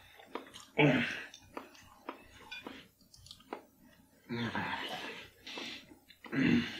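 A man chewing quail eggs with his mouth closed. Three short vocal sounds come about a second in, past the middle and near the end, with a few small clicks between them.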